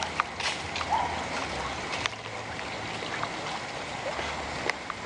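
Outdoor rural ambience: a steady rushing noise with scattered sharp clicks and a faint low hum that comes and goes.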